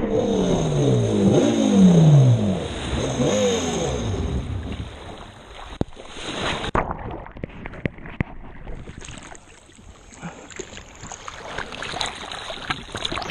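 Jet ski engine running, its pitch dropping several times over the first few seconds as it slows or passes, then fading into quieter water splashing and lapping.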